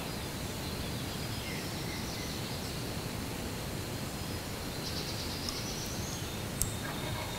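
Quiet outdoor ambience: a steady background hiss with faint songbird calls, including a rising whistled note about five seconds in, and one sharp click near the end.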